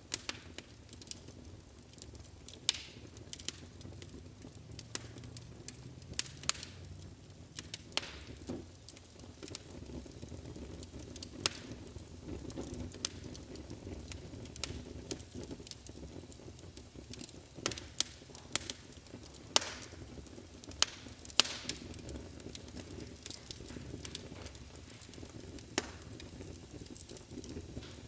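Wood fire burning in a fireplace: a steady low rumble of flames, with sharp crackles and pops from the burning logs coming at irregular intervals.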